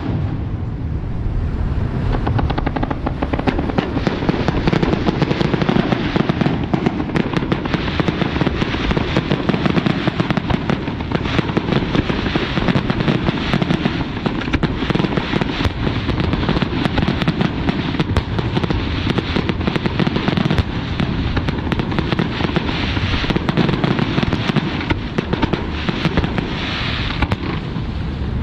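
Aerial fireworks going off in a dense, unbroken barrage: rapid crackling and bursts over deep booms, with no pause.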